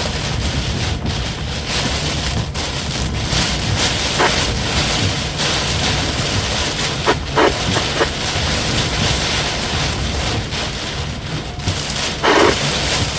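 Thunderstorm wind and rain making a steady loud rush, with wind buffeting the microphone. A few brief louder bursts come through about four, seven and twelve seconds in.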